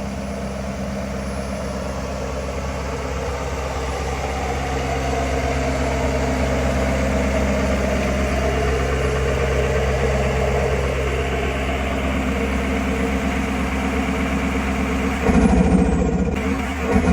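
Ford Super Duty's 6.7 L Power Stroke turbo diesel idling steadily, with a slow rise and fall in pitch in the middle. About 15 s in it is revved briefly, and as it drops back the turbo whistle sweeps down with a pulsing turbo flutter.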